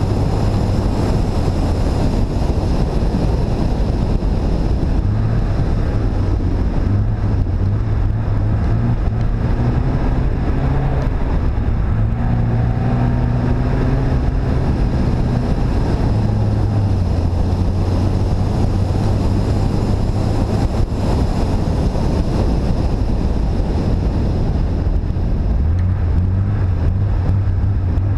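Car engine running as the car drives on a snowy road, its pitch rising and falling a little with speed, under a steady rush of wind on an exterior bonnet-mounted microphone.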